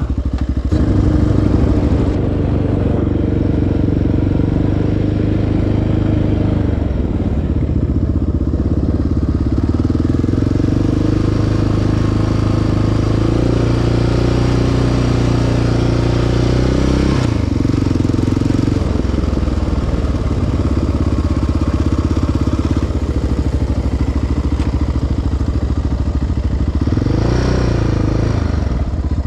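Sport quad's single-cylinder four-stroke engine running on a trail ride, its pitch stepping up and down with the throttle, with a quick rev up and back down near the end.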